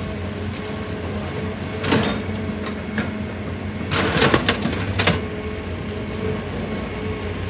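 Excavator's diesel engine running steadily, with a short crunch of rock about two seconds in and a louder series of rock crunches and scrapes about four to five seconds in.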